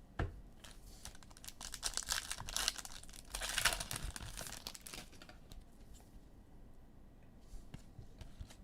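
Wrapper of a trading-card pack being torn open and crinkled, a dense crackling for a few seconds, followed by a few light clicks as the cards are handled.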